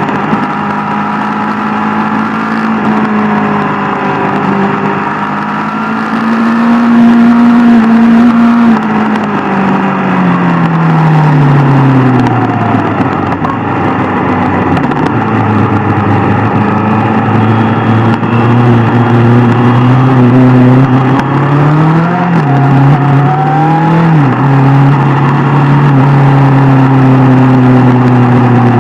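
Sport motorcycle engine running on the road. Its pitch climbs, then drops back to a lower steady note, with a brief rise and fall near the end as the throttle opens and closes.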